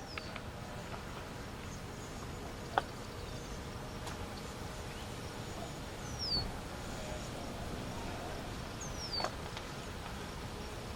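A bird giving a short, high down-slurred call twice, over a steady outdoor hiss of insects and wind. There is a sharp click about three seconds in.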